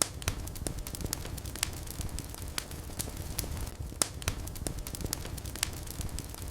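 Wood fire burning in a fireplace: a steady low rumble of flames with irregular sharp crackles and pops, the loudest at the very start and about four seconds in.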